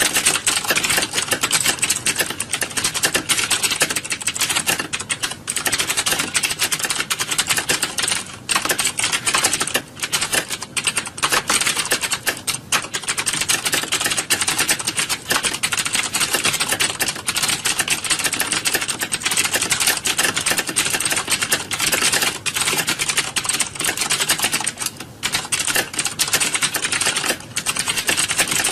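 Many computer keyboards clacking at once, a dense, unbroken chatter of keystrokes from a hall full of typists.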